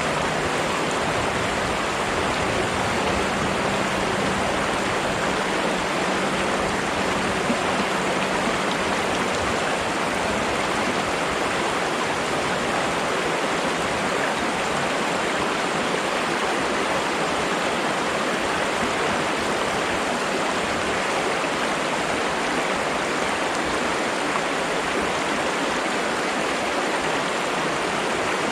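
Flowing water rushing steadily, like a stream, with no breaks or changes.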